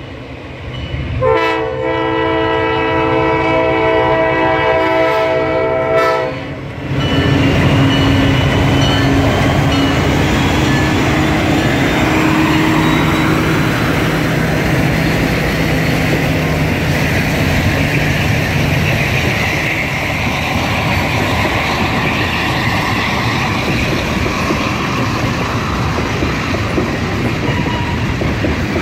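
Diesel freight locomotive's air horn sounding one long blast of several tones together for about five seconds. The locomotives' diesel engines then pass close by, loud, followed by the steady rumble and clack of tank cars and hopper cars rolling past.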